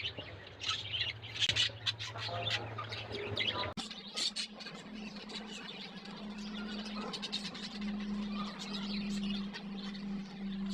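Budgerigars chirping and chattering in quick, short high calls, with a steady low hum underneath.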